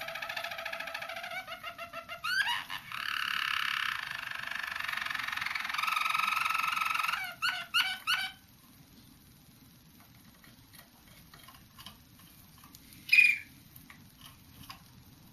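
Young roller canary singing song tours: pulsed trilling phrases with a few short clipped notes. The song stops about 8 seconds in, and a single short, loud call comes near 13 seconds.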